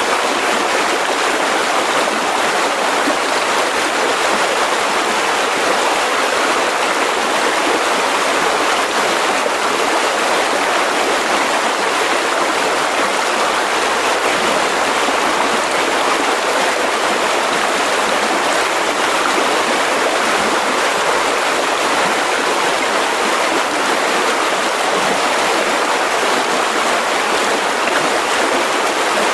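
Mountain river rushing over rocks, a steady, even flow with no breaks.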